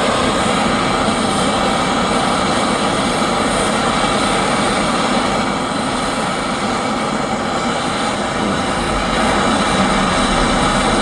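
A steady, loud rushing noise of air or gas under pressure.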